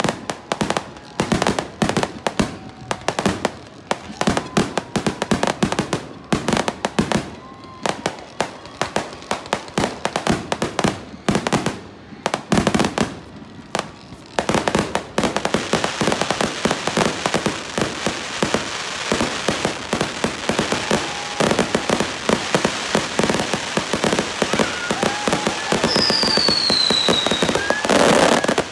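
Fireworks display going off: irregular sharp bangs several a second, then about halfway through a dense, steady crackle of many rapid small pops. A falling whistle cuts through near the end.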